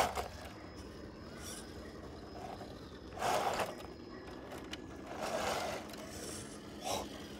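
Scale RC rock crawler climbing rocks: a few short scraping scuffles of its tyres and chassis on stone, the clearest about three seconds in and about five seconds in.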